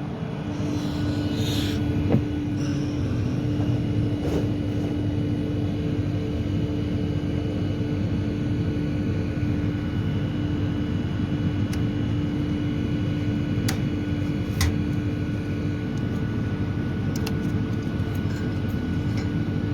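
Steady machine hum with a constant low droning tone, with a few sharp clicks scattered through it, the loudest about two seconds in and near the middle.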